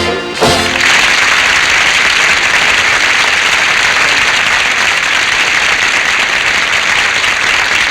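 A brass-led orchestra's closing chord cuts off about half a second in, then a studio audience applauds steadily.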